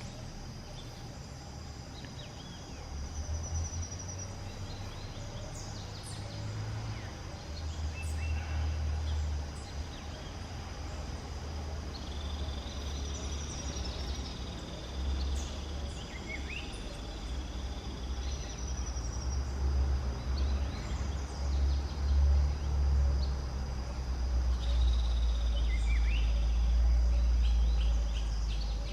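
Outdoor ambience: birds calling with short chirps and whistles over a steady high-pitched insect drone. Under it a low rumble comes and goes and grows louder toward the end.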